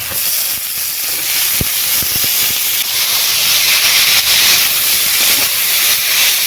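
Wet boiled vegetables (banana flower, potato, eggplant) hitting hot mustard oil in a wok with frying crabs, sizzling steadily and loudly, the sizzle building a little after about three seconds. A couple of faint knocks come about two seconds in.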